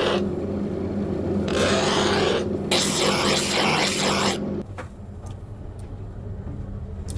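Loud rasping scrape of steel being worked on a knife blank, with short breaks, stopping about four and a half seconds in. A low steady machine hum and a few light clicks remain.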